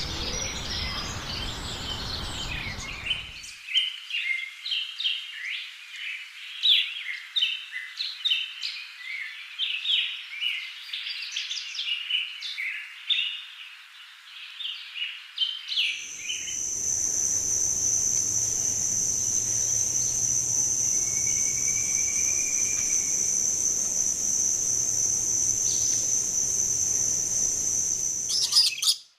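Many small birds chirping in quick, overlapping notes. About halfway through, this changes to a steady, high-pitched insect drone over a low hum, with one short whistle partway through.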